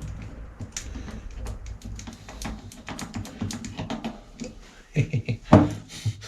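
Irregular light clicks and taps, like small hard objects being handled. A couple of short vocal sounds come about five seconds in.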